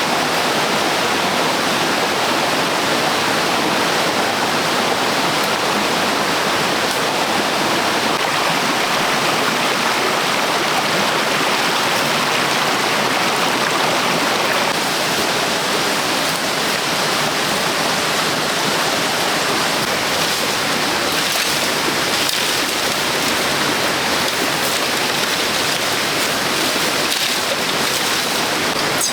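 Steady rush of running water, even and unbroken, with a few faint ticks in the last several seconds.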